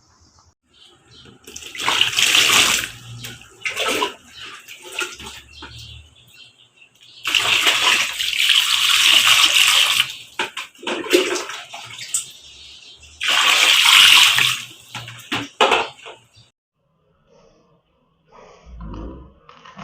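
Running water gushing in three bursts of a couple of seconds each, with small knocks and clatter in between.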